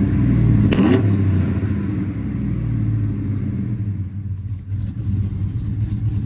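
Cammed LS2 V8 of a 2009 Sierra pickup running through long-tube headers and a true dual exhaust: a short rev blip about a second in, then settling back to a steady idle.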